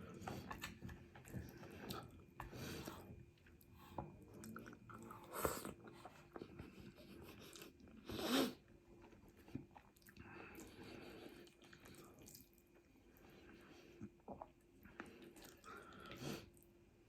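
A person chewing and biting food close to the microphone, with scattered wet smacks and clicks, and one louder short burst about eight seconds in.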